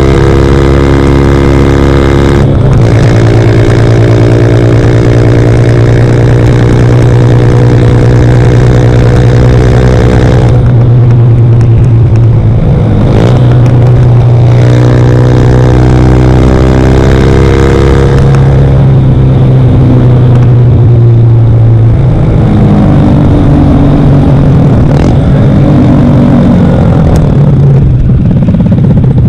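Single-cylinder engine of a CFMoto Papio motorcycle running loud through a Yoshimura RS-9 exhaust. It holds a steady high-rev note for long stretches; the note breaks off and picks up again a couple of times and wavers upward near the end.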